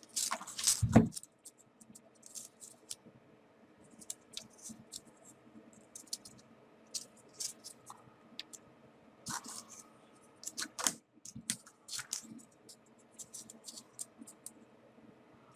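Small folded paper origami pieces being handled and slotted into one another, making irregular crisp clicks and scratches of paper on paper. There is a louder bump about a second in.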